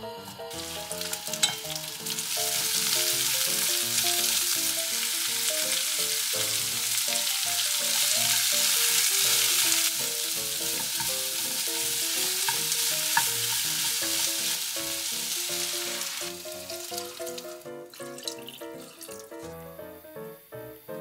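Sliced onions and chili flakes sizzling in hot oil in a nonstick pot while being stirred with wooden chopsticks. The sizzle fades out about 16 seconds in. Light background music plays throughout.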